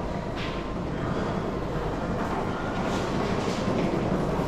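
A train running along the track, a steady low rumble of wheels on rails with a few faint clicks.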